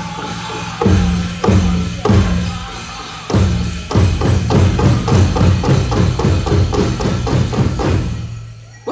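Powwow big drum: a few heavy strikes spaced more than half a second apart, then a fast steady beat of about four strikes a second. The drumming fades away near the end.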